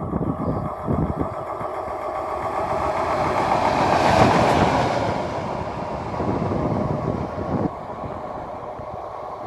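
A train passing: its rolling noise swells to a peak about four seconds in, then fades away. Wind buffets the microphone throughout.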